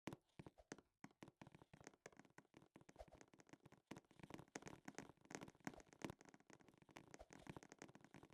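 Near silence, with faint, irregular clicks and rustles.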